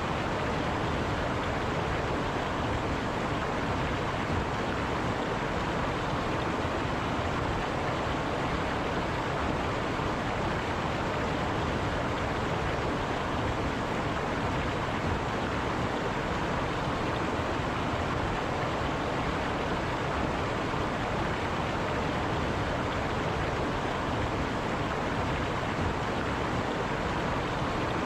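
River water rushing over rocks in a steady, even roar with no change.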